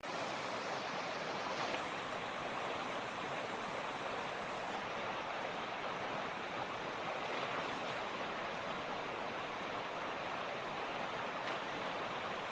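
Mountain stream flowing steadily: a dense, even rush of water with no breaks or changes.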